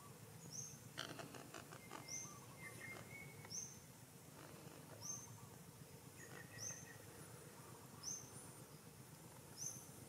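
Faint bird chirps: a short high note repeated regularly about every second and a half, with a few fainter lower calls between, over a low steady rumble. A few faint clicks come about a second in.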